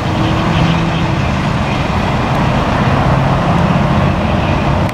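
Bi-level passenger train rolling past over a grade crossing: a steady, loud low rumble of wheels on rails, with a faint hum.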